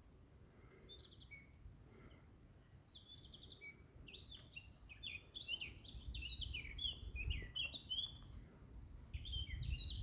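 Small birds singing: a quick run of short, high chirps and trills, sparse at first and much busier from about four seconds in. A low rumble sits underneath in the second half.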